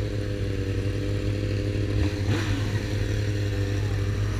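Motorcycle engine running at a steady high speed, its pitch holding even, with a brief rushing noise about two seconds in.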